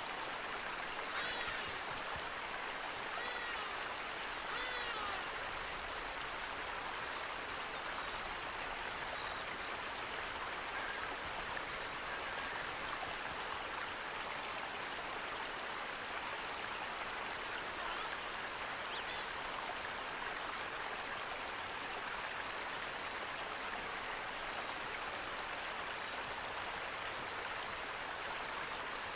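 Steady rush of running water, like a stream or falls. A few short bird chirps come in during the first few seconds.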